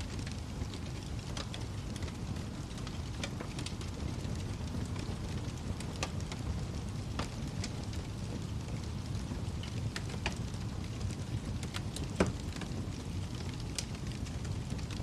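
Wood fire burning in a fireplace: a steady low rumble of flames with scattered sharp crackles and pops, one louder pop about twelve seconds in.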